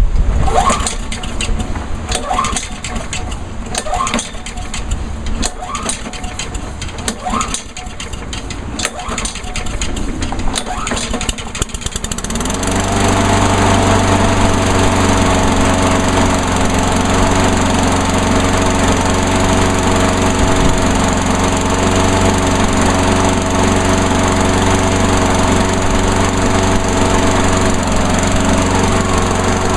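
Irregular clicking and knocking for about twelve seconds, then a Honda lawnmower's single-cylinder engine starts from cold and runs at a steady speed.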